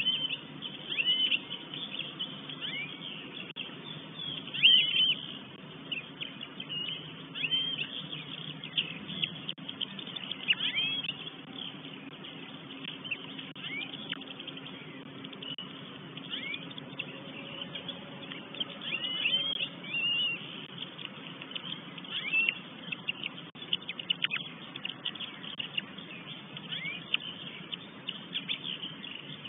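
Birds calling: short, high, slurred calls repeated irregularly every second or so, some louder than others, over a faint steady low hum.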